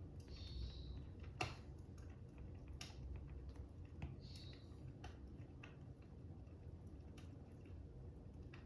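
Faint crackling fire: irregular soft pops and snaps about once a second, one sharper pop about a second and a half in, over a low steady rumble, with two brief hisses.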